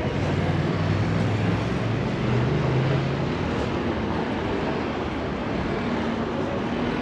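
Street traffic noise heard from a bicycle riding through city streets, with a low vehicle engine hum that stops about three seconds in.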